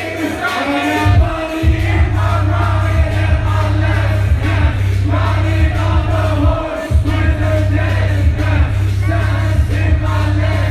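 Live hip-hop played loud through a club PA: a heavy booming bass beat with sung and rapped vocals over it and crowd noise mixed in. The bass drops out for about the first second and cuts out briefly again a little past the middle.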